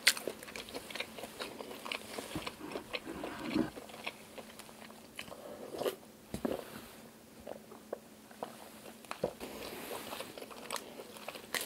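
Close-miked chewing and biting of cooked black tiger shrimp: a run of short, irregular clicks and crunches, with a sip of a drink partway through.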